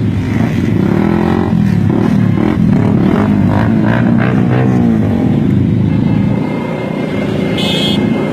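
Several sport motorcycle engines running together, their exhaust notes rising and falling as they are revved. A short high tone sounds near the end.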